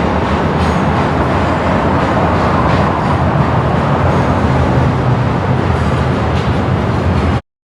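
Freight train passing close by with a steady loud rumble and wheel-on-rail noise, and a few faint clicks. The sound cuts off suddenly near the end.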